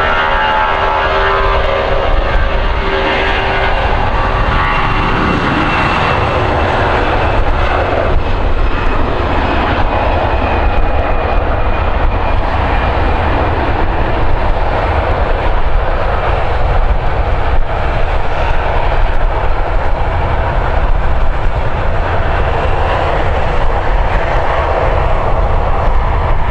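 Aircraft engines running loud and steady throughout, a continuous rushing roar with deep rumble. A whine of pitched tones is heard over it in the first few seconds, then fades, leaving the broad roar.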